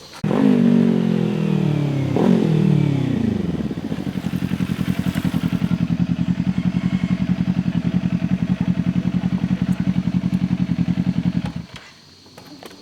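Motorcycle engine passing close by, its pitch falling as it goes past, with a second falling sweep about two seconds in. It then settles into a steady, evenly pulsing engine note that cuts off suddenly near the end.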